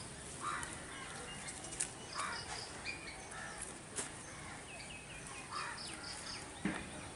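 Background bird calls, one bird repeating a short phrase of three or four quick high notes every couple of seconds over faint outdoor ambience. Two faint sharp clicks are heard a couple of seconds apart.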